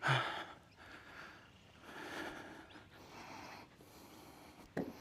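A person breathing into a clip-on microphone: a short, loud voiced huff at the start, then soft breathy swells. A sharp click comes just before the end.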